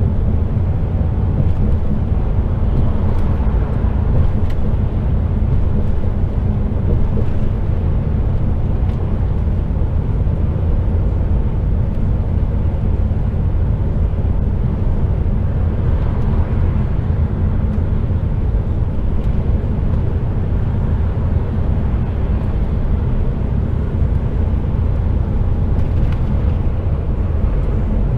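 HGV container lorry's diesel engine running steadily, heard from inside the cab, with a constant low drone and road noise.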